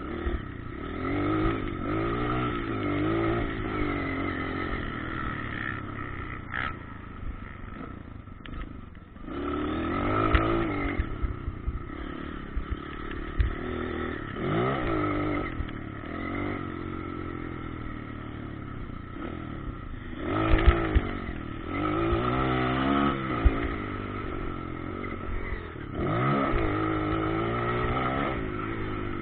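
Motocross bikes riding on a dirt track, their engines revving up and dropping back in repeated surges as they accelerate and back off, several louder passes spaced a few seconds apart.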